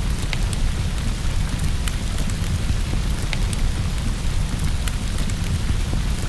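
Steady rain against a window over a continuous low rumble, with scattered sharp crackles from a wood fire in a fireplace.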